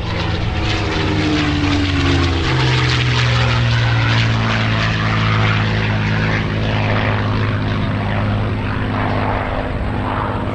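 P-51 Mustang's Packard Merlin V-12 engine and propeller passing by, its pitch dropping in the first two seconds or so, then settling into a steady drone.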